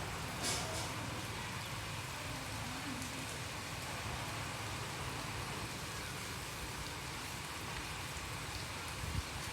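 Steady rain falling, an even hiss with a low, steady rumble beneath it and a few sharp drip-like ticks in the first second.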